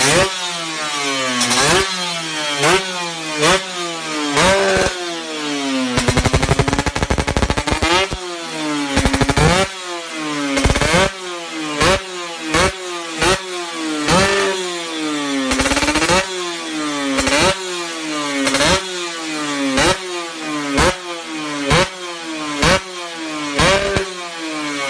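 Kawasaki Ninja 150 R/RR two-stroke single revving through an AHAU1 standard-class racing exhaust: a long series of quick throttle blips, each rising sharply in pitch and falling back toward idle, about once a second. It is held at high revs briefly twice near the middle.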